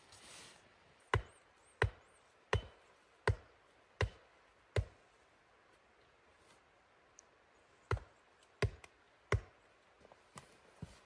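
Wood being chopped: six sharp strikes about three-quarters of a second apart, a pause, then three more strikes and a few lighter taps near the end.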